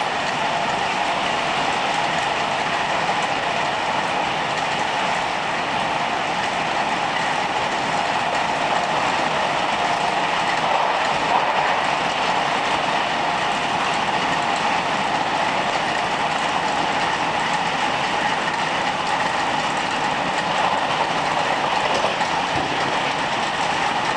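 Steady running noise heard from inside a Sydney Trains S-set electric passenger carriage moving along the line: wheels on the rails and the carriage's hum, with no change in pace.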